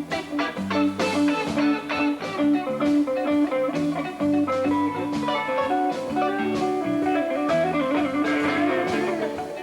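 Rock band playing an instrumental passage, with electric guitar picking a quickly repeated note over bass.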